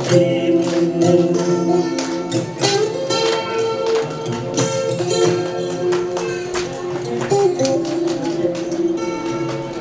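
Instrumental passage of a live song: sustained melodic tones carried over a steady pattern of sharp percussion strokes, with no singing.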